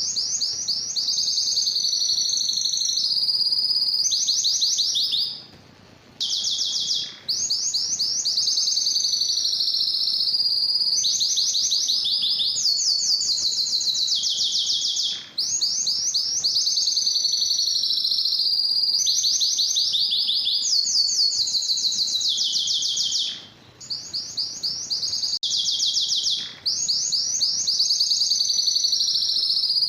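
Domestic canary singing: long, high-pitched phrases of rapid trills and rolling notes, broken by a few short pauses about six, fifteen and twenty-three seconds in.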